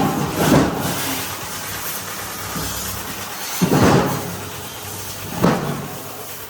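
Tractor engine running under a hissing wash of noise, with three short, loud surges of rushing noise.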